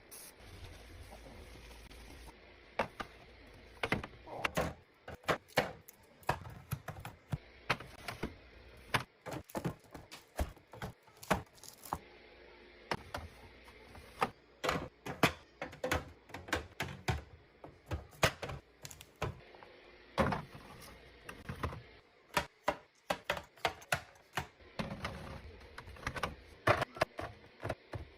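Many sharp clicks and light knocks at an uneven pace, sometimes in quick clusters, from containers and items being handled and set down while restocking.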